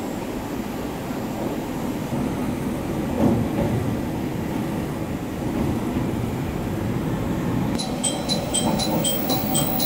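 Diesel railcar running along the line, heard from inside the passenger cabin: a steady rumble of engine and wheels on the rails, with a single knock about three seconds in. In the last two seconds a level-crossing bell rings rapidly, about three strokes a second, as the train passes a crossing.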